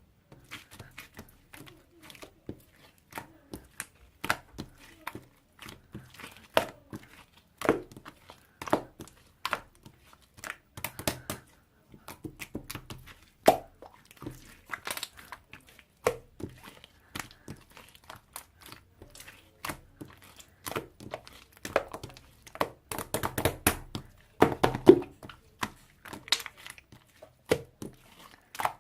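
Sky-blue wood-glue slime being pressed, stretched and poked by hand, giving irregular small pops, clicks and crackles, busiest in two clusters partway through and near the end.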